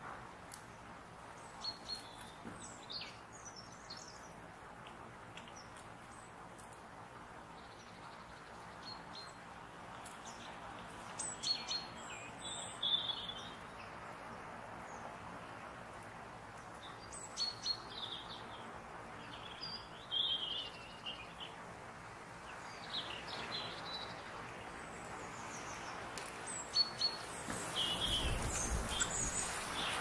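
Small woodland birds calling with scattered short, high chirps and call notes over a faint background hiss. Near the end a louder rushing noise rises beneath them.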